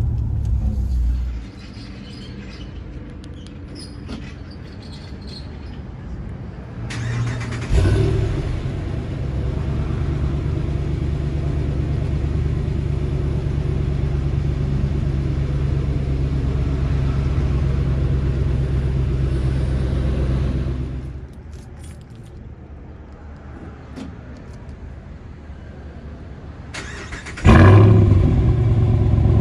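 2017 Ram 2500 pickup engine running through a muffler-delete exhaust, a low drone. It swells as the truck pulls away about seven seconds in, holds steady, then falls back about twenty-one seconds in and jumps up loud again near the end.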